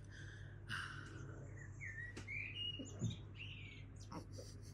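Birds chirping, a string of short calls that slide up and down in pitch, over a steady low hum. A sharp click a little past two seconds and a soft low knock about three seconds in.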